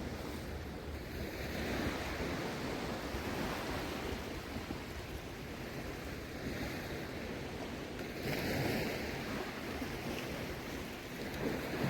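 Shallow sea water washing and sloshing in gentle surges, with a little wind on the microphone.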